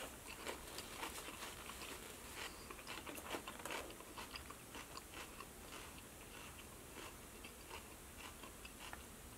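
Close-miked chewing of a mouthful of crisp lettuce salad: wet crunching clicks in quick succession, thinning out over the second half.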